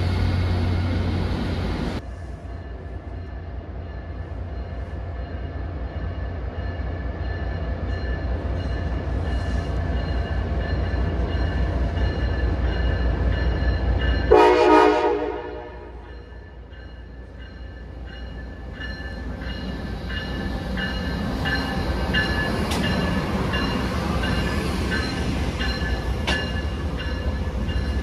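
Amtrak passenger train approaching with a low pulsing rumble, sounding one short horn blast about halfway through. Its Amfleet coaches then roll past close by with wheel and rail noise and scattered clicks. The first two seconds, before a cut, hold a steady low hum from a locomotive standing at the platform.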